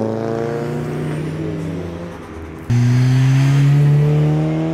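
A modified car's engine accelerating away, its pitch rising steadily. About two and a half seconds in, it gives way abruptly to a second, louder car that also accelerates with rising pitch.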